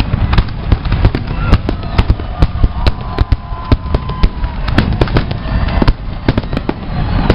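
Fireworks display: firework shells bursting in rapid bangs, several a second, over a continuous low rumble and crackle.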